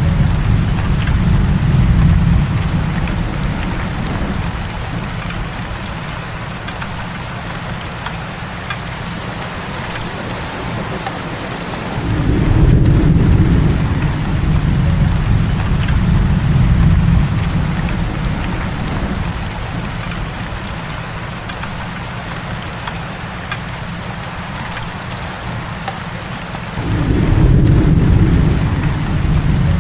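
Heavy rain falling as a steady hiss, with deep rolling thunder at the start that fades after a few seconds, swells again about twelve seconds in, and returns near the end.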